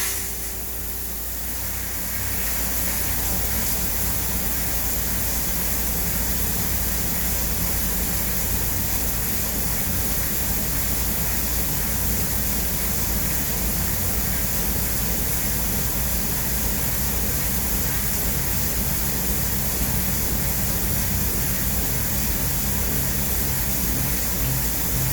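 CNC turn-mill lathe running with its coolant spraying: a steady hiss over a low machine hum, building up over the first couple of seconds.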